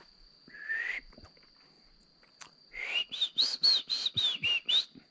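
A bird singing: one rising whistled note, then a quick run of about nine short whistled notes that rise and fall in pitch. A faint steady high tone runs underneath.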